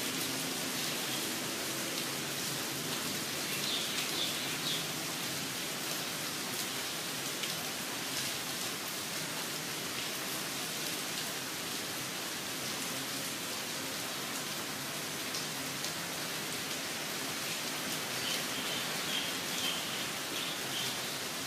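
Steady rain falling, with a few birds chirping briefly about four seconds in and again near the end.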